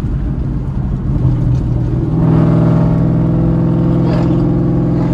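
Cammed Shelby GT500 supercharged V8 with Corsa Xtreme exhaust, heard from inside the cabin while driving. About two seconds in the engine note steps up to a strong, steady drone and holds there.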